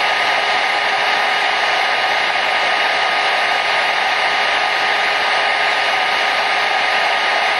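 Hair dryer running steadily: an even, unchanging rushing hiss of blown air with a faint motor whine.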